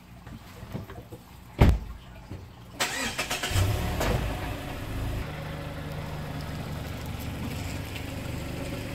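A car door shuts with one loud thump, then about a second later the SUV's engine cranks and starts, revs briefly and settles into a steady idle.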